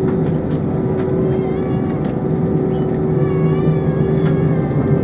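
Steady cabin hum inside an Airbus A320 with its engines running, a low drone with two steady tones held underneath.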